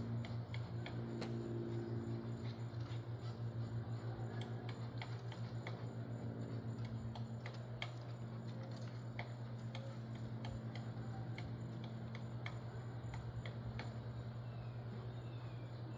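Woodpecker pecking: a long run of quick, even taps with a low thudding pulse, and sharper, irregular clicks over it.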